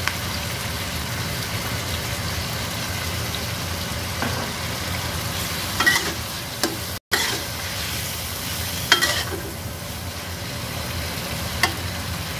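Shrimp and sauce frying gently in a wok while a metal spatula stirs them, with a few sharp clinks of the spatula and spoon against the pan. The sound cuts out for an instant about seven seconds in.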